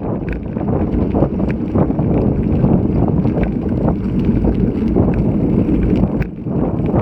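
Strong wind buffeting an action camera's microphone while riding a road bike in typhoon winds. It makes a dense, rumbling rush, with scattered small clicks and rattles through it.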